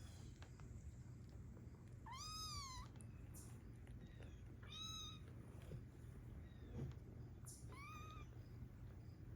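Young kittens mewing: three short, high-pitched mews, each rising and falling, spaced a few seconds apart, the first the longest.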